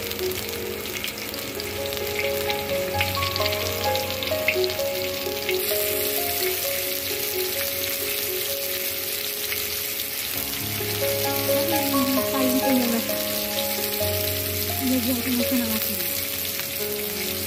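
Salmon steaks frying in hot oil in a pan, a steady sizzle, with background music playing a simple melody over it.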